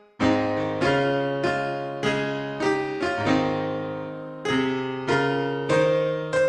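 Slow keyboard music: piano-toned chords struck one after another, roughly every half second to second, each left to ring and fade, starting just after a brief pause.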